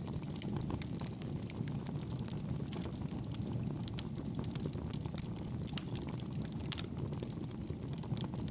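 Fire burning in a fireplace: a steady low rush of flame with frequent small crackles and pops.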